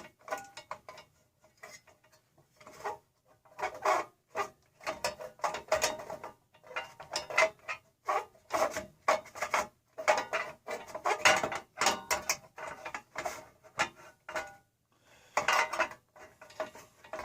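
Metal parts clicking and scraping as painted sheet-metal pieces are worked into place on a small Briggs & Stratton engine, in irregular strokes about two a second after a quieter start.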